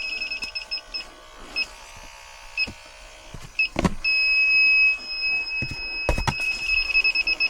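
Electronic refrigerant leak detector tripping: a high-pitched alarm that beeps in quickening runs, slows to a few single beeps, holds a steady tone for about a second around four seconds in, then speeds back into rapid beeping near the end. A few sharp knocks, about a second, four seconds and six seconds in.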